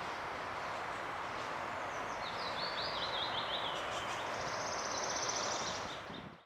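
Steady outdoor background hiss with a small songbird singing: a zigzag phrase a couple of seconds in, then a fast, high trill. The sound fades out near the end.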